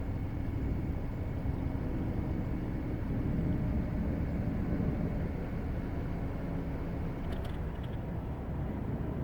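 2018 Audi A5 Coupe's 2.0-litre turbocharged four-cylinder engine and exhaust running steadily with a low rumble, without revving.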